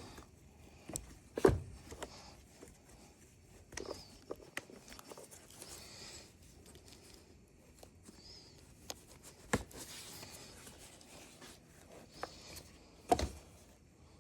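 Scattered clicks and knocks of tools and small parts being handled during a chainsaw repair. Three louder knocks come about a second and a half in, around the middle, and near the end.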